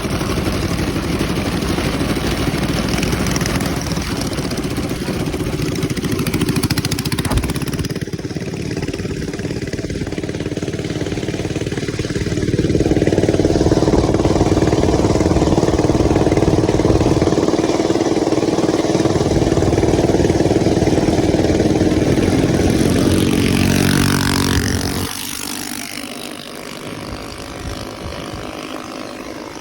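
Motovox mini bike's small gas engine running, held at higher revs and louder for about ten seconds from around twelve seconds in, then falling back and running quieter near the end.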